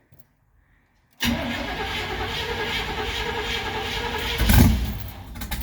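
1971 Chevy C10's engine being cranked over by its starter motor in a hard cold start after five months of sitting, the gas pedal pumped beforehand. The rhythmic cranking starts about a second in, and about four seconds in the engine briefly fires and surges, nearly catching, then falls back.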